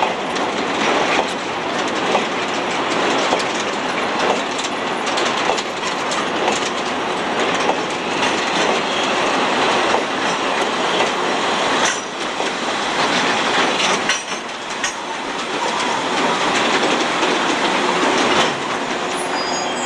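Covered two-axle goods wagons rolling past close by, their steel wheels rumbling and clattering over the rail joints in a steady run of clicks. A brief high wheel squeal comes near the end.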